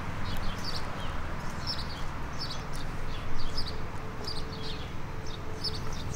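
Small birds chirping and singing in short repeated phrases, over a low steady hum.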